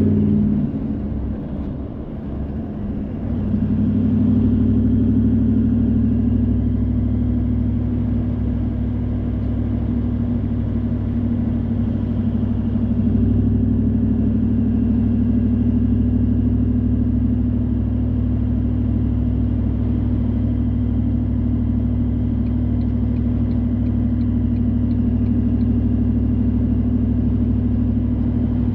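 A car in motion, heard from inside: a steady engine and road drone. It drops in level about a second in and comes back up at about four seconds, as when easing off and back on the throttle.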